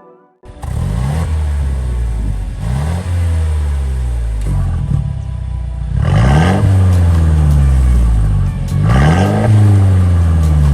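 Mercedes-Benz W205 C250 engine through an aftermarket valved stainless exhaust, revved repeatedly with the car stationary: short blips, then two higher revs about six and nine seconds in, each falling back to idle.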